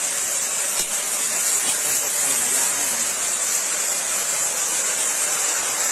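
Flash-flood torrent of water carrying hailstones, rushing with a steady high hiss.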